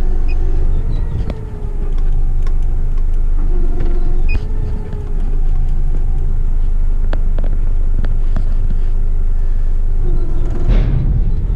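Heavy rubbish truck's diesel engine running with a steady rumble while its hydraulic bin-lift arm works, the engine hum dipping and rising in pitch a few times. There are scattered light clicks and knocks.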